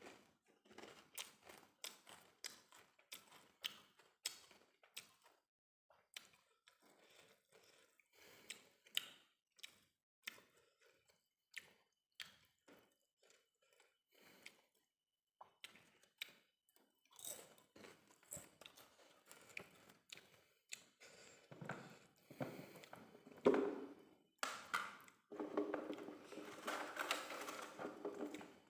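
Close mouth sounds of eating fried cassava cracker (opak): many short, crisp crunches and chewing, getting louder and denser near the end.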